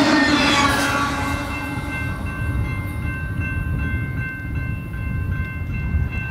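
Double-stack intermodal freight train's rumble fading as the last cars roll away, leaving a low rumble. About a second and a half in, a grade-crossing bell can be heard ringing steadily.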